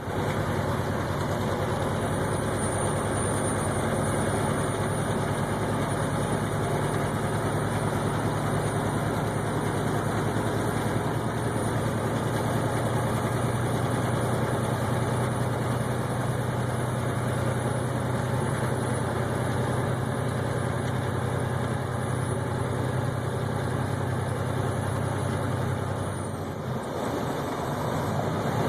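Steady engine drone and road noise heard from inside a vehicle's cab while driving on a snowy highway. The engine note drops away briefly about two seconds before the end, then picks up again.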